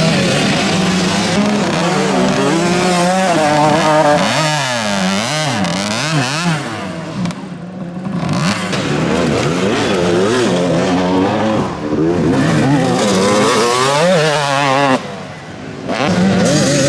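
Several motocross bikes racing past, their engines revving up and down as they accelerate and shift. The engine noise drops away briefly twice, about seven seconds in and again near the end.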